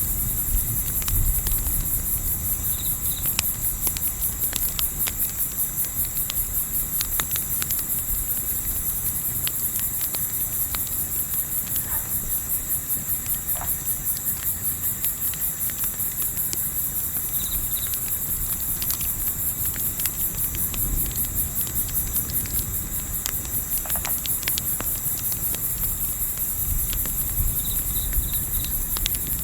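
Crickets chirping in a fast, steady pulsing trill, over a low rumble of wind, with scattered crackles from a campfire.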